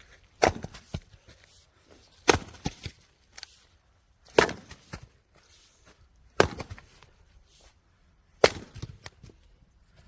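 Firewood being split: five sharp chopping strikes about two seconds apart, each followed by a brief clatter of cracking, falling pieces.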